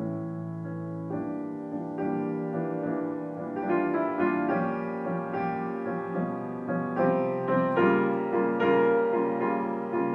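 Solo piano playing slow, gentle music, with held chords and single notes struck over them; it grows fuller about a second in and again near the middle.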